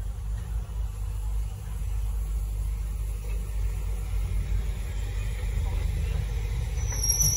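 Passenger train carriages rolling slowly past with a steady low rumble. A high squeal starts near the end.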